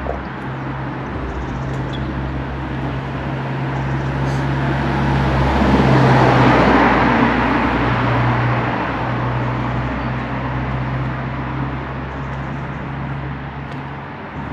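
A car passing along the street, its tyre and engine noise swelling to a peak about six seconds in and then fading away, over a steady low hum.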